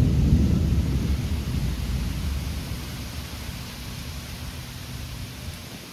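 Thunder rumbling, loud at first and fading away over about five seconds, over the steady hiss of rain.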